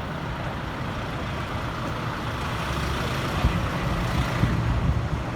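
Street traffic: a motor vehicle passes close by, its engine and road noise swelling through the middle and easing off near the end.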